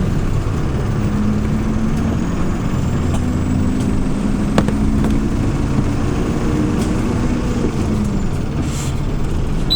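Hyundai New Super Aero City CNG city bus's engine running as the bus drives, a steady low drone heard from inside the bus, with a short click about four and a half seconds in.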